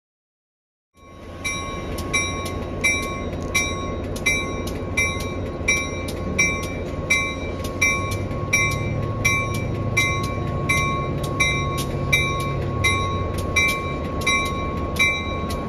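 A bell rings in a steady rhythm, about one strike every 0.7 s, over the low rumble of a train. The sound cuts in suddenly about a second in.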